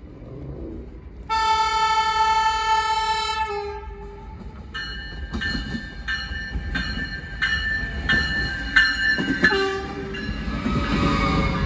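Approaching passenger train sounding its horn in one long blast about a second in, then ringing its bell at about one and a half strikes a second, with a short horn note near the end of the ringing. The train then passes close by, its wheels and cars rumbling on the rails.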